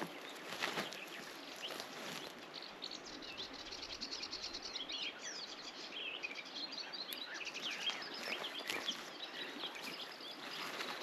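Small songbirds chirping and trilling, busiest in the middle, over a faint outdoor hiss, with a few soft knocks.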